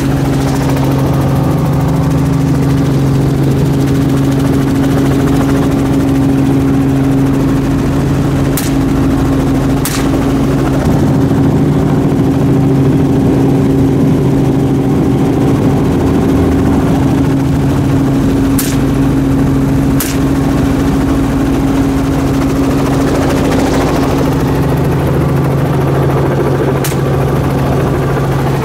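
Helicopter engine and rotor running steadily with a loud, constant drone. A few brief sharp clicks come through it at intervals.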